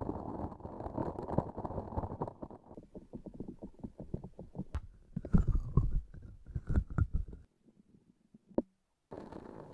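Transparent sticky object squeezed and peeled close to the microphone, making dense crackling and tacky clicking. It turns into a quick run of sharp clicks, then a few loud, low squishy presses. After a short pause with one click, the crackling starts again near the end.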